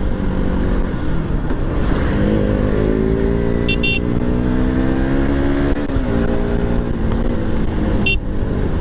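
Motorcycle engine under acceleration, revs climbing, dropping at a gear change about six seconds in, then climbing again, over steady wind and road rumble. Two brief high beeps sound partway through.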